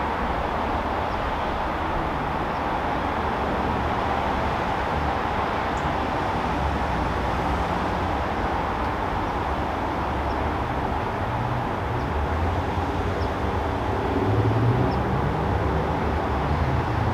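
Backyard outdoor ambience: a steady dense hiss with a low rumble that swells about fourteen seconds in, and a few faint, short high ticks scattered through it.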